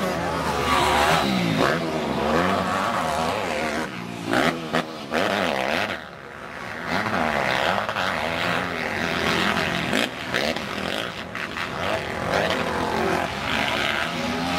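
Several motocross bikes' engines revving up and down as they race past, pitch rising and falling with throttle and gear changes. There is a brief lull about six seconds in.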